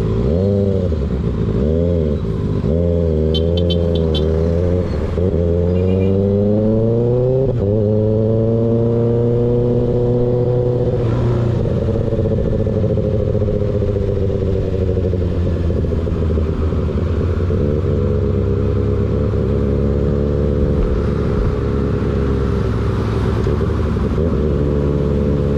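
Sport motorcycle engine through an M4 GP19 slip-on exhaust with its baffle removed, revving up and down in several quick blips, then pulling hard up the revs before a shift. It then settles into steady cruising with the pitch slowly easing off, over rushing wind noise.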